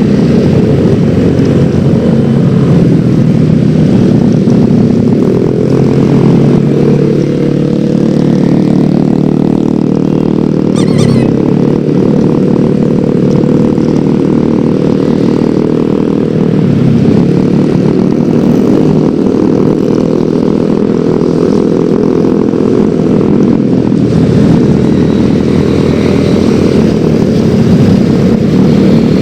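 Yamaha X-Ride 113cc single-cylinder scooter engine running under way, its pitch rising and falling with the throttle and dipping briefly about eleven and seventeen seconds in.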